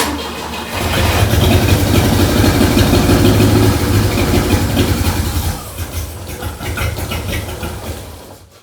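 Volvo 142's four-cylinder engine catching and running rough on its first start with a newly installed Speeduino ECU, revving up about a second in, sagging around five and a half seconds and dying away near the end. The rough running comes from ignition timing that is off, as the owner judges.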